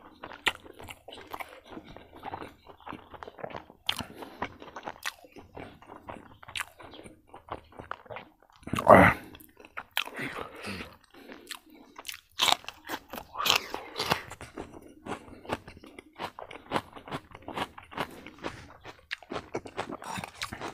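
A person chewing and crunching a meal of rice, kidney bean and meat curry with raw cucumber, lettuce and green chillies, close to the microphone, with many sharp wet mouth clicks. One louder burst about nine seconds in.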